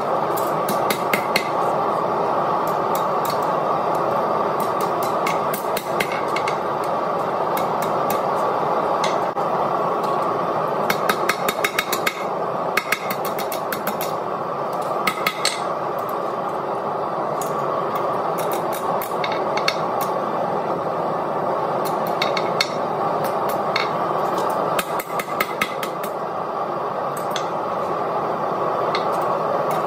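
Hand hammer striking 1/2-inch square steel bar on an anvil in irregular runs of blows, some quick series, with a light ring after the strikes. A steady rushing noise runs underneath the whole time.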